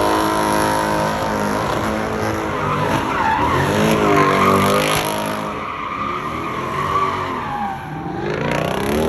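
Dodge Durango doing doughnuts: the engine revs up and down repeatedly while the tyres skid and squeal. The revs dip and climb again near the end.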